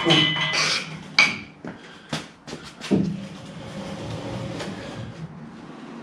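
Metal clanks and knocks from shifting a heavy lathe on its pallet across the workshop floor: a ringing clank at the start, a few sharp knocks in the first three seconds, then a steady low rumble.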